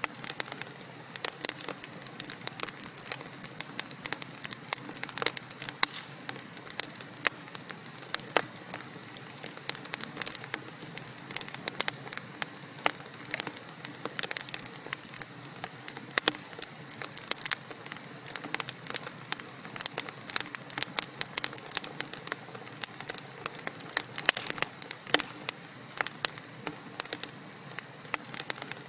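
Wood fire of burning logs in a fireplace, crackling steadily with many irregular sharp pops and snaps over a soft hiss.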